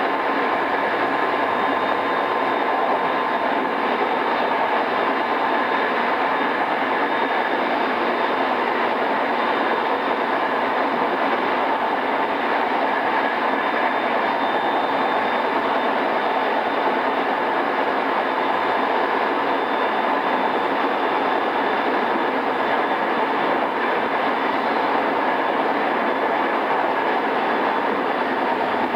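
Interior running sound of a JR East E217 series commuter train motor car, before its renewal, travelling at a steady speed. The wheel and rail noise is an even rumble with a faint steady whine over it, and nothing changes through the stretch.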